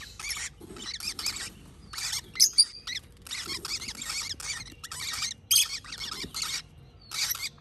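Hand-reared parrot chicks giving raspy, hissing begging calls in quick short bursts, one after another: nestlings begging for food at feeding time.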